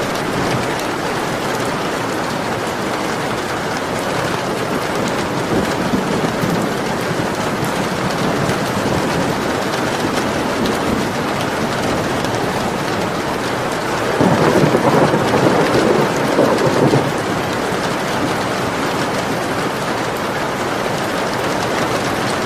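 Steady heavy rain, with a roll of thunder rising out of it about two-thirds of the way through and lasting about three seconds.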